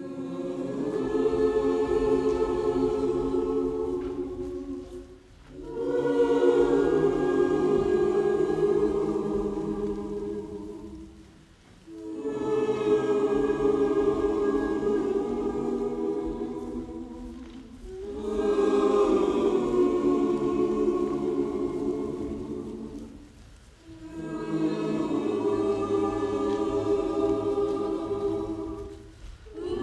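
A choir singing five long phrases of about six seconds each, with short breaks between them.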